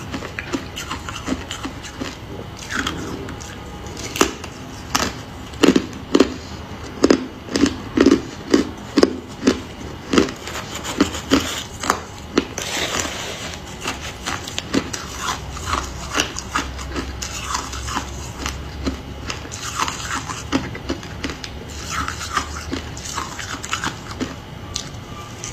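A person crunching and chewing hard ice close to the microphone. There are sharp crunches among smaller crackles, with a strong, even run of crunches about two a second in the middle.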